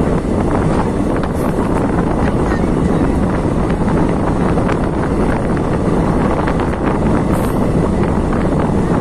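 Wind rushing over the microphone held out of a moving passenger train's door, over the steady running noise of the train on the track.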